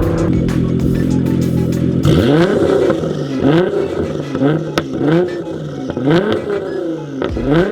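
Nissan GT-R R35 twin-turbo V6 through a Linney drag exhaust, running steady at first and then revved in repeated blips, rising and falling about every 0.7 s, with sharp pops and bangs from the tune between revs.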